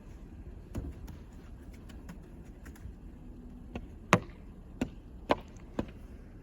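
A handful of sharp, irregularly spaced knocks, the loudest about four seconds in, over a steady low background rumble.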